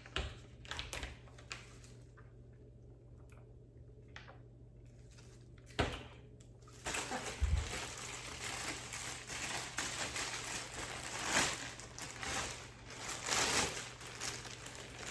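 Handling of food and drink containers at close range: a few light clicks, a sharp click about six seconds in, then several seconds of continuous rustling, sloshing noise.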